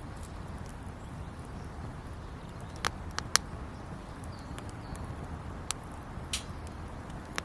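Wood campfire crackling: scattered sharp pops, three of them close together about three seconds in, over a steady low background rush.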